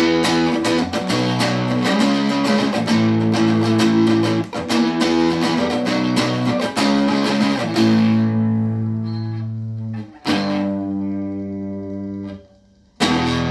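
Guitar plugged into an amplifier and effects, strumming chords quickly for the first several seconds, then single chords struck and left to ring out and fade, with a brief gap before one more chord near the end.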